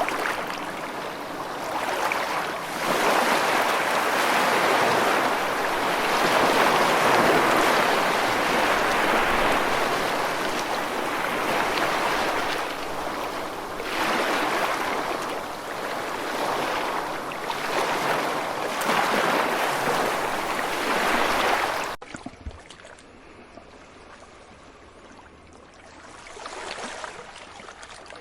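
Sea waves breaking and washing ashore in surges every few seconds. About 22 seconds in, the sound cuts abruptly to a much quieter, duller wash of water that swells once near the end.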